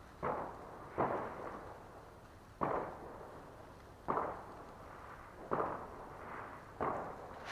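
Fireworks going off, heard at a distance: six deep bangs about every second and a half, each with a short echoing tail.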